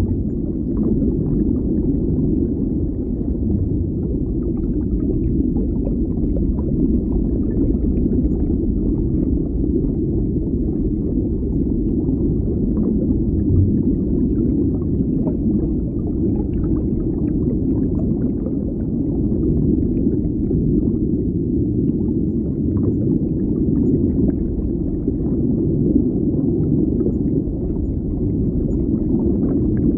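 Underwater ambience: a steady, deep, muffled rumble of moving water, with faint scattered clicks and crackles over it.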